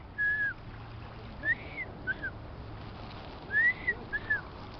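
A person whistling to call seagulls: three pairs of short two-note whistles, each note a quick rise and fall, spaced about a second and a half apart.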